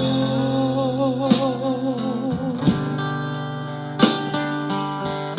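Music played back through a 3-inch 8-ohm 10 W full-range speaker driver: a guitar passage of a Thai song, with a wavering held note over a steady bass, then plucked guitar notes with sharp attacks.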